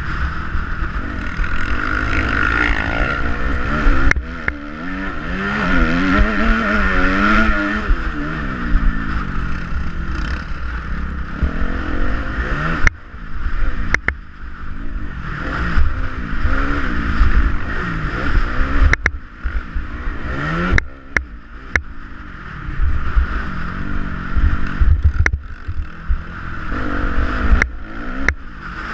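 Motocross bike engine revving up and down over and over, with a number of sharp knocks, most of them in the second half.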